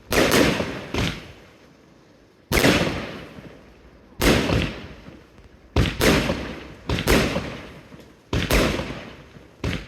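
Category F2 consumer fireworks going off: about ten sharp bangs at uneven intervals, each fading over about a second, with a short lull early in the sequence.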